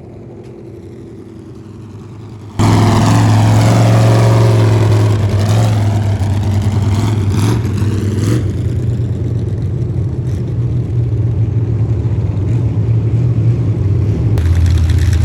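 A motor vehicle's engine running loudly with a steady low drone. It comes in suddenly about two and a half seconds in, after a quieter stretch.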